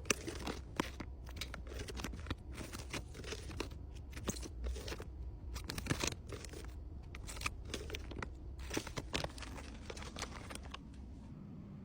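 Crinkling and rustling of plastic packaging as small accessories are handled and packed, with irregular small clicks and taps. The crackling thins out near the end.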